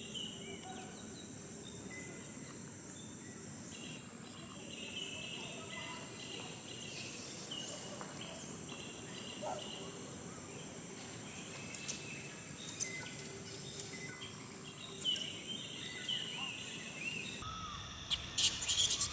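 Outdoor ambience of a tropical forest: a steady high insect drone with many short high chirping calls and a few sharp clicks.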